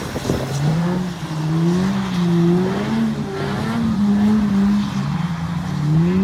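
Engine revving up and down over and over, its pitch rising and falling every second or so, as vehicles are driven sideways around a wet drift track.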